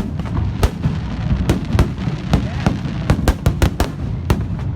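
Fireworks going off in quick, irregular succession: about a dozen sharp bangs and crackles over a steady low rumble.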